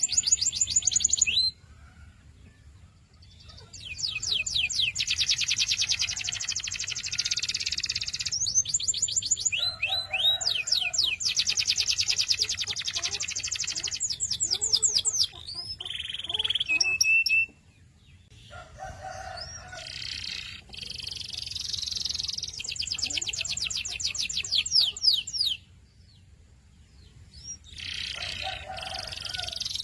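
Domestic canary singing: long phrases of rapid trills, each a fast run of repeated high notes with a few swooping notes, broken by short pauses.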